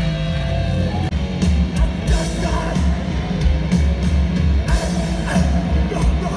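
Hardcore band playing live and loud: distorted electric guitars, bass and pounding drums with crashing cymbals. Held notes fade out about a second in as the busier full-band playing takes over.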